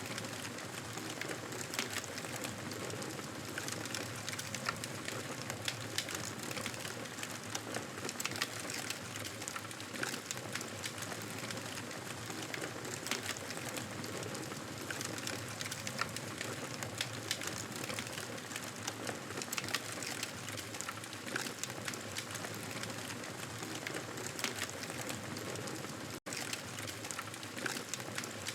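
Wood fire crackling in a fireplace: irregular small pops and snaps over a steady hiss. The sound cuts out for an instant near the end.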